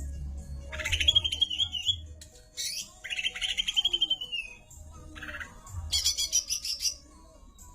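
A songbird singing in rapid trilled phrases, four in a row, the last one higher-pitched than the rest, over a low hum.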